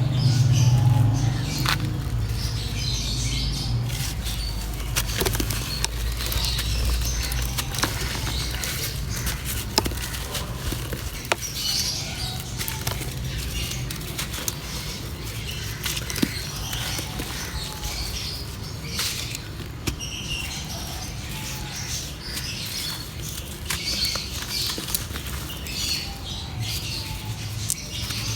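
Dry material crumbling in a clay pot: a dense, continuous crackle of many small gritty clicks and snaps, with a low rumble in the first few seconds.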